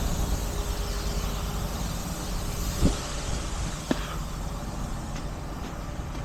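Heavy tow truck's engine running steadily at idle, with two short metallic knocks about three and four seconds in.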